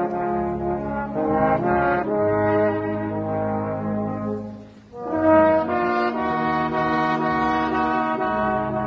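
A brass ensemble plays a slow piece in held chords, the notes moving in steps. About halfway through it breaks off briefly, then comes back in louder.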